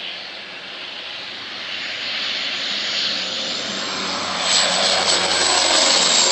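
An engine's rushing noise growing steadily louder, with a thin high whine that rises in pitch as it builds.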